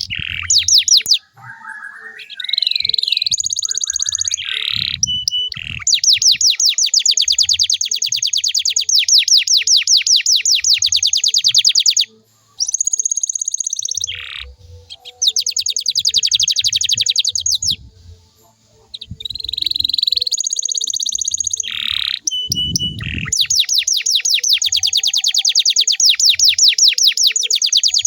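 Domestic canary singing a long, varied song: three long rolls of very rapid repeated notes, with short whistles and gliding notes between them and brief breaks in the song about twelve and eighteen seconds in.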